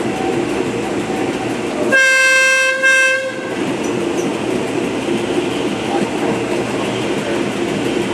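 Train running along the track with a steady rumble of wheels on rail. About two seconds in, the train's horn sounds for about a second and a half, a longer blast followed at once by a shorter one.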